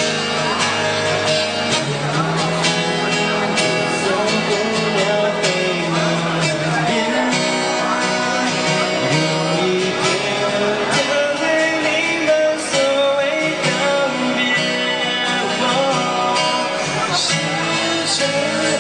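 Live band playing an instrumental break in a Mandarin pop ballad, a guitar-led melody over the accompaniment with gliding, bending notes.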